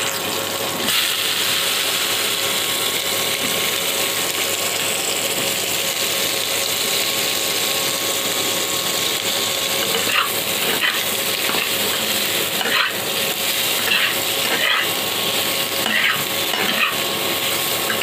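Pieces of boiled raw jackfruit sizzling as they fry in a little hot oil in a kadai, a steady hiss. From about ten seconds in come several short clatters as pieces are added and turned in the pan.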